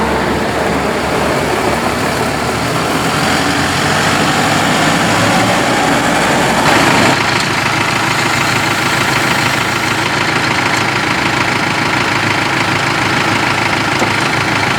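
New Holland T4.75 tractor's diesel engine running steadily at idle; its sound changes about seven seconds in, the higher-pitched part dropping away.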